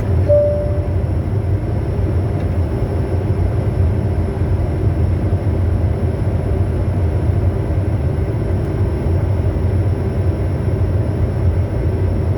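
Steady noise of a Bombardier Challenger 350 business jet on approach: a constant low rush of airflow and engine noise. A short single tone sounds about half a second in.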